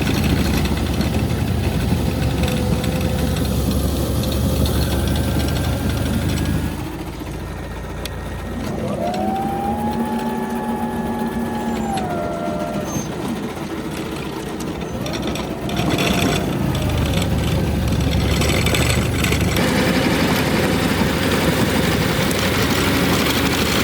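1970s GE electric garden tractor and its electric snowblower running, a steady low churning hum. The hum drops away about seven seconds in and comes back about sixteen seconds in. In the quieter middle stretch, a whine rises, holds and falls.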